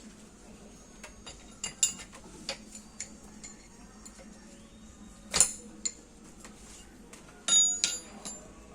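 Metal tools and machine parts clinking and knocking against each other in scattered strokes, with a sharper strike about five seconds in and a short run of ringing metallic clanks near the end.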